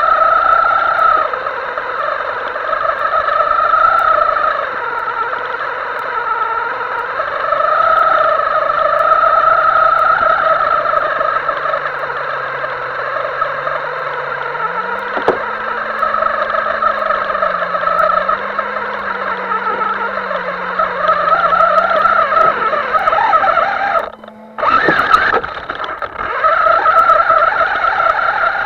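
A radio-controlled model's electric motor whining, its pitch rising and falling over and over with the throttle. The sound cuts out for a moment near the end, then carries on.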